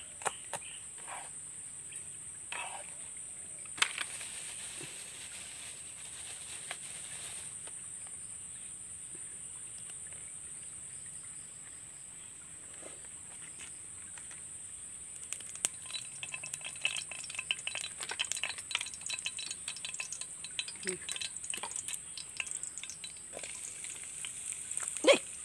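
A few knife chops on a leaf at the start, then chopped garlic, shallots and lemongrass crackling and sizzling in oil in a wok, thickening from a little past halfway. A steady high-pitched drone runs underneath, and there is a single sharp knock near the end.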